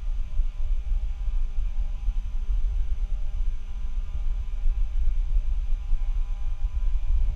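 Bad microphone noise: a steady, unsteady-level low rumble with an electrical hum and several faint steady whine tones over light hiss.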